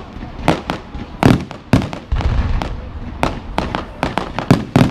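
Fireworks going off: about ten sharp bangs at irregular intervals, some close together, over a low rumble.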